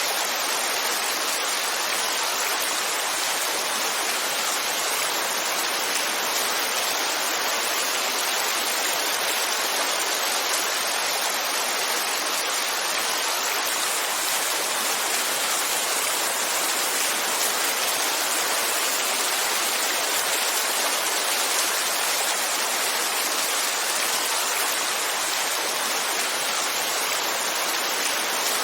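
Heavy rainfall: a steady, dense hiss of rain with no single drops or thunder standing out.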